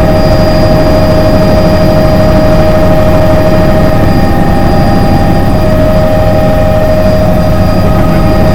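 Helicopter running very loud and close during take-off: a dense low rumble of engine and rotor with a steady high whine over it.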